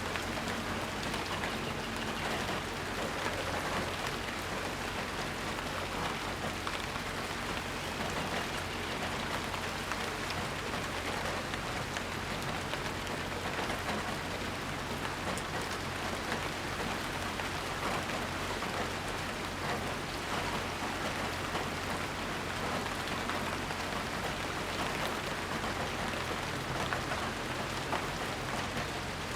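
Steady rain falling, an even hiss with many fine drop patters on surfaces.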